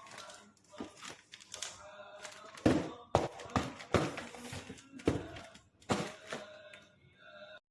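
Handling noises: a series of sharp knocks and clicks with some crinkling, the loudest knock about two and a half seconds in.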